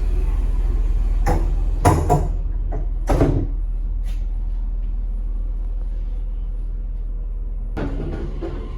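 Steady low rumble of a JR Kyushu 883 series limited express train running, heard from inside the car, with a few sharp knocks or clunks between one and three and a half seconds in and another near the end.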